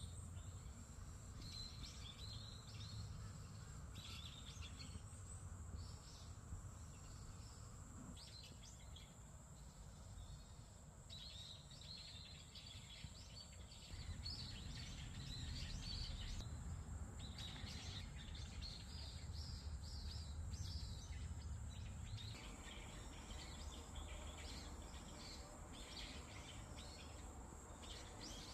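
Small birds chirping and twittering in many short calls throughout, over a steady low rumble and a faint steady high-pitched whine.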